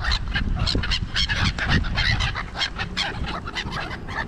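A flock of birds calling at a feeding spot: many short, harsh calls in quick succession, overlapping one another, over a steady low rumble of wind on the microphone.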